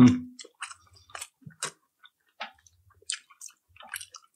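Close-up mouth sounds of eating: irregular wet chewing and lip-smacking clicks, after a short hum right at the start.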